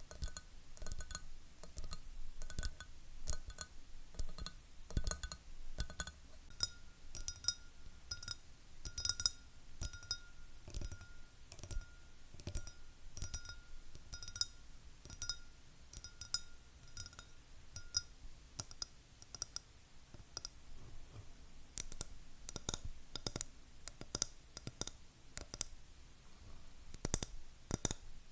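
Fingernails tapping rapidly on hard objects in quick, irregular clicks. For the first two-thirds many taps on a glass item ring at one steady pitch; after that the taps turn dry and clicky.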